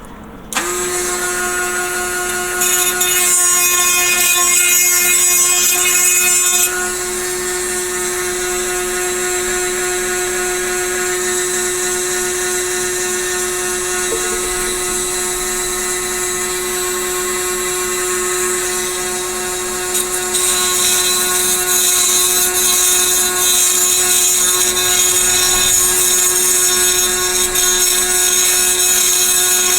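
Small handheld power tool, such as a rotary tool, switching on and running at a steady whine while grinding down a plastic model part, with two spells of louder grinding: one a few seconds in and one from about two-thirds of the way through.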